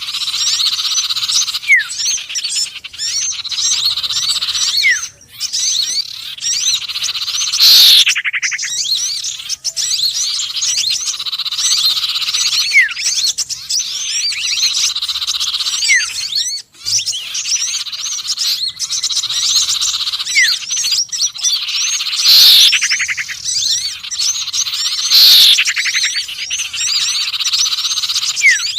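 Bird-lure recording of small songbirds, mixing sirtu, konin and sepah raja calls: a dense, continuous chatter of high chirps with a short upward whistle repeating every few seconds. Three loud downward-sweeping calls stand out, one about a quarter of the way in and two close together near the end.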